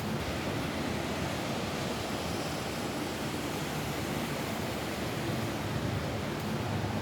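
Rain falling on a roof: a steady, even hiss with no single drops or breaks standing out.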